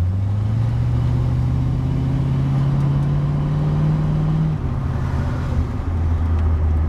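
1971 Ford Mustang Mach 1's V8 engine heard from inside the cabin, its note climbing steadily as the car accelerates, then dropping suddenly about four and a half seconds in as the automatic gearbox shifts up, and running on lower. The exhaust is not aggressively loud.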